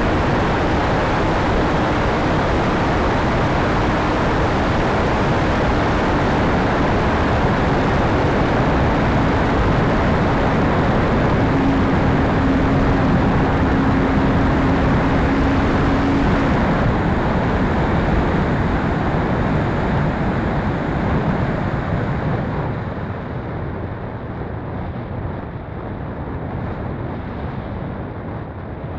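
Steady rushing of wind across the microphone, with a faint steady hum in stretches. The rush thins and drops in level from about two-thirds of the way through.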